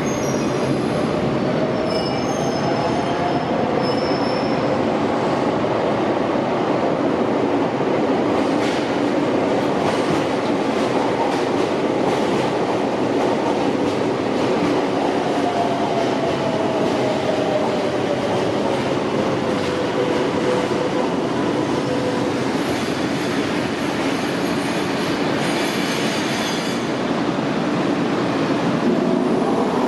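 Kobe Electric Railway (Shintetsu) electric commuter train running through an underground station, with steady running rumble and wheel squeal. The squeal rises in pitch near the start, then slowly falls in pitch from about halfway through to about two-thirds through.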